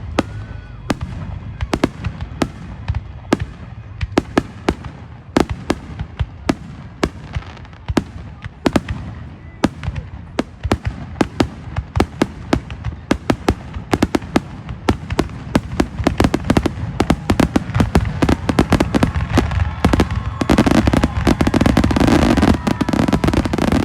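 Fireworks going off: sharp bangs and cracks in quick succession, coming faster and faster, until about 20 seconds in they merge into a dense, continuous barrage.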